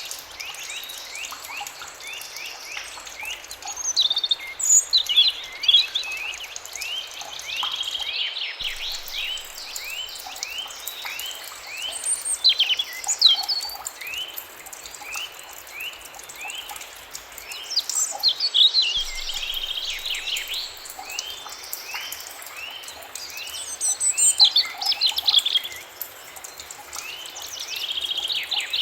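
Forest birds singing: one bird repeats short downward-sliding whistled notes at about two a second throughout, while other birds chirp and sing over it in louder spells every few seconds.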